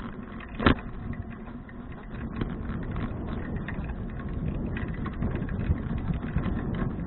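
Riding noise from a moving bicycle picked up by an action camera: a steady rumble with frequent small clicks and rattles, and one sharp knock just under a second in.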